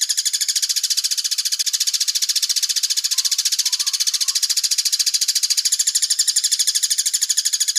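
A bird's rapid, high-pitched rattling trill, held without a break at about a dozen pulses a second.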